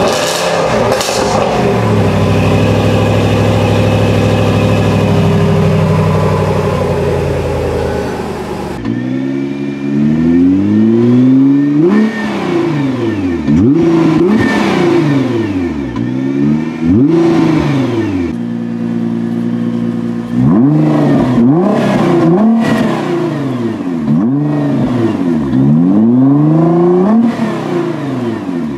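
Range Rover Sport SVR's supercharged V8 running, with one slow rise and fall in revs. About nine seconds in it gives way to a Nissan GT-R's twin-turbo V6 being blipped about a dozen times, each rev rising and falling sharply, with short idle stretches between.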